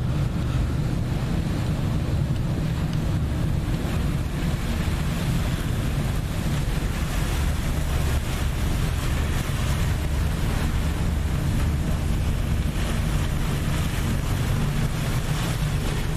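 A boat's engine running with a steady low drone, mixed with the rush of water and wind blowing on the microphone.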